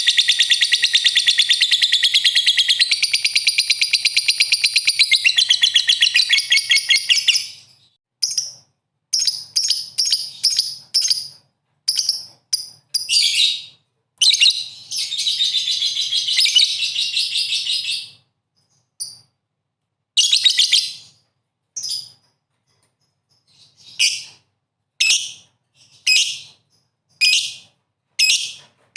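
Songbird singing a fast, high-pitched chattering trill, unbroken for about the first seven seconds, then in short bursts separated by silent gaps.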